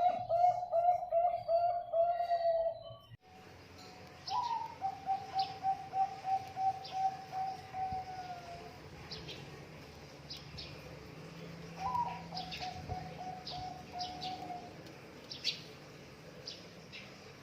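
Zebra dove cooing: a rapid string of short coos on one pitch, loud for the first three seconds and then cut off abruptly. Two quieter runs follow, each opening on a higher note, with small birds chirping high above.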